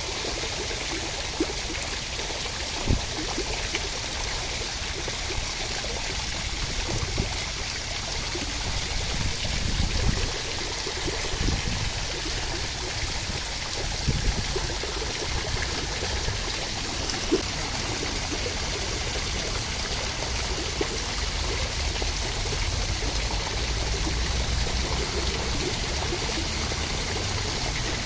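Steady rushing water: a constant, even hiss with a few soft low thumps scattered through it.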